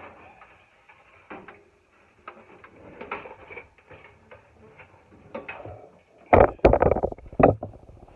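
Scattered clicks and metal knocks from handling and fitting a dryer heating element assembly back into a dryer, with a few loud knocks close together in the last third.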